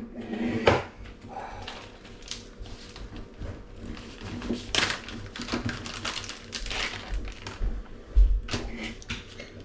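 Parmesan being grated by hand: irregular rasping strokes of cheese against a metal grater, with a dull knock about eight seconds in.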